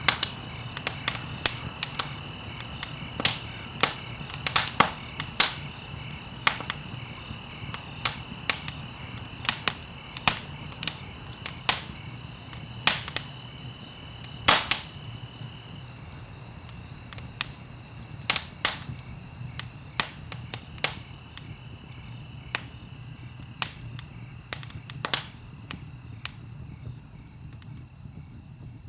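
Wood fire in a fireplace crackling, with sharp irregular pops over a steady low rumble. The pops thin out near the end, and a faint steady high whine runs underneath.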